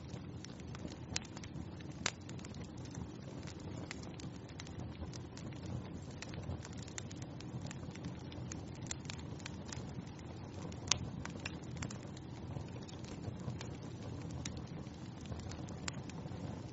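Wood fire burning in a fireplace: a steady low rush of flames with scattered sharp crackles and pops, the loudest pop about two-thirds of the way in.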